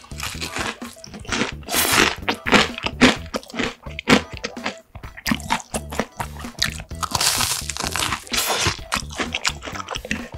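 Close-miked crunching and chewing of a crispy deep-fried breaded pork cutlet stuffed with sweet potato and cheese, with bursts of louder crisp crunches about two seconds in and again around seven to eight seconds in.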